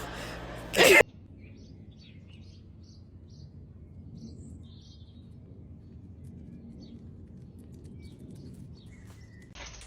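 A short loud burst of noise about a second in, then faint outdoor ambience with scattered short, high bird chirps.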